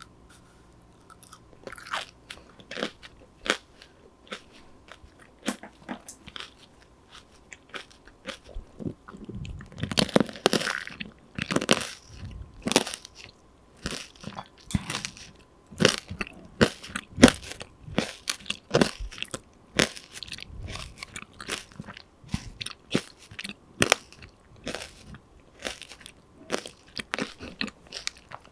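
Close-miked biting and chewing of a crunchy snack: sharp crunches and crackles, sparse and softer at first, then coming thick and loud about a third of the way in.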